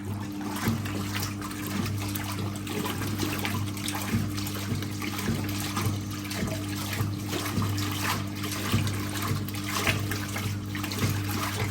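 1958 Hotpoint Empress washing machine agitating towels in water: its electric motor hums steadily under the repeated sloshing and splashing of the agitator swinging back and forth.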